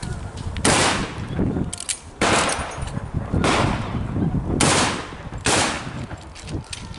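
Gunfire firing blanks in a mock battle: five loud shots or short bursts about a second apart, each echoing briefly.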